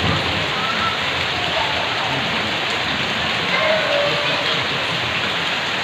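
Heavy rain falling steadily onto the ground and standing water, an even dense hiss.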